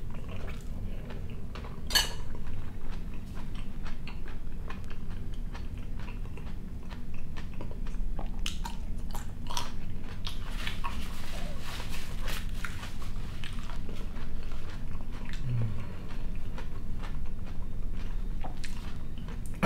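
A person chewing and biting food in small mouthfuls, with a spoon clicking against a ceramic bowl once, about two seconds in.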